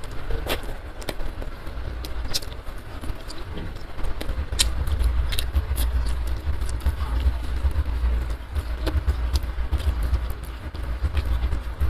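Close-miked eating: irregular crisp clicks and smacks of chewing over a steady low rumble that grows louder about four seconds in.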